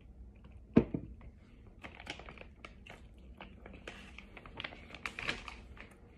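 A sharp bite into a hard, powdery white chunk about a second in, followed by irregular crunchy chewing.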